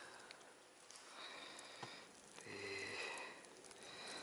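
Faint handling of a fishing lure and line: a few small clicks, and about two and a half seconds in a brief low hum from the angler.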